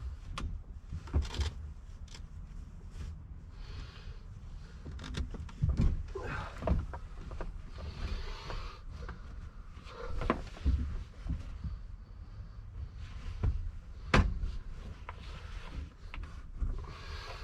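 A sheet rustling as it is pulled over a thin bunk mattress, with scattered knocks and bumps. The sharpest knock comes about fourteen seconds in.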